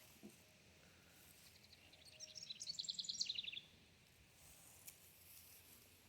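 A songbird sings one song of about two seconds: a rapid series of high, evenly repeated notes that grows louder and ends in a lower trill.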